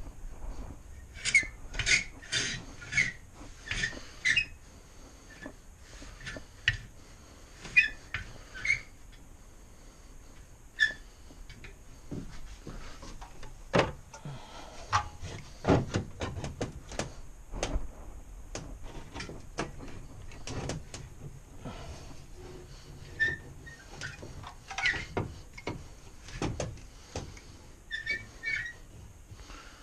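Rope hoist pulleys squeaking in short, high chirps in runs of several at a time while a small engine is lowered slowly on the rope, with scattered metal knocks and clunks as it is set into the frame.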